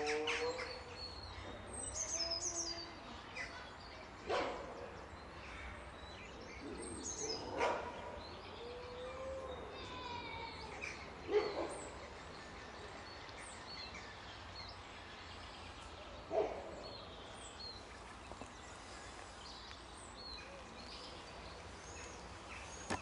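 Wolves calling: a howl trailing off at the start, then short whines and four sharp loud calls spaced a few seconds apart. Small birds chirp faintly in the background.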